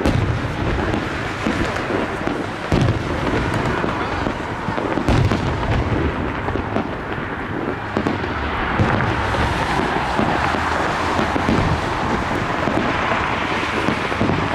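Fireworks display: aerial shells bursting with deep booms every few seconds over a continuous rumble of overlapping reports and crackle.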